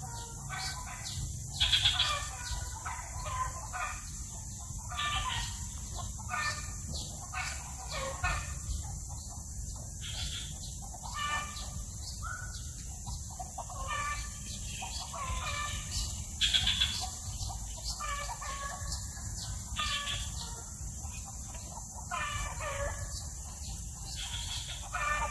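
Bird calls: a long run of short calls repeating irregularly, a few louder ones standing out, over a steady low hum.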